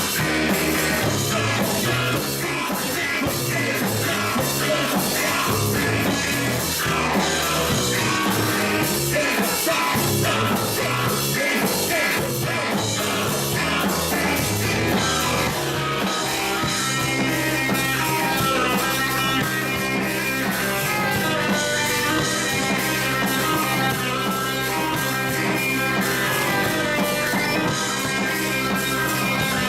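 Rock band playing, with guitar and a drum kit keeping a steady beat.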